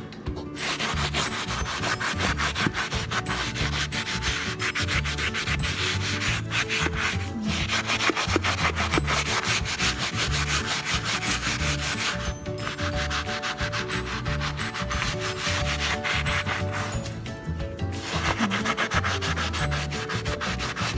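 Hand-scrubbing of bleach-soaked ceramic floor tiles to lift dark stains, in rapid back-and-forth rubbing strokes with short pauses every few seconds.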